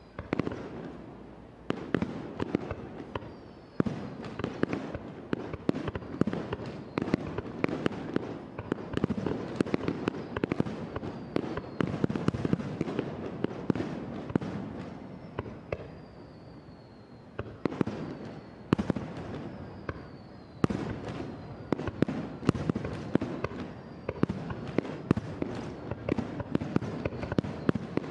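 Aerial fireworks shells bursting one after another in dense bangs and crackling. Thin whistles falling in pitch sound over them several times, and the barrage eases briefly a few times.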